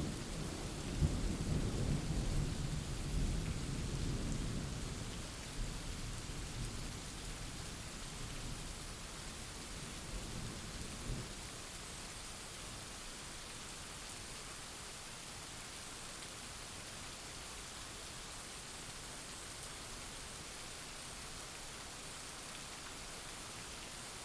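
Steady rain falling with a long roll of thunder that rumbles low at first and dies away about halfway through, leaving only the even hiss of the rain.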